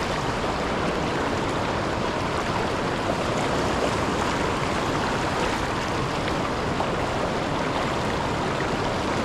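River water rushing steadily over rocks and a low waterfall, an even hiss with no breaks.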